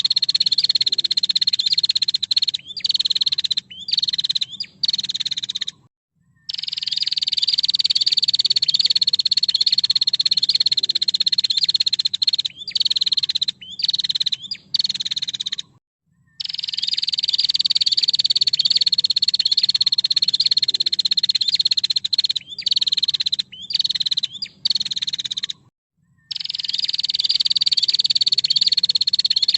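Female prenjak (prinia) giving long, rapid buzzing trills, each several seconds long and falling slightly in pitch, then three short trills and a brief pause. The same sequence repeats about every ten seconds, as a looped masteran call recording.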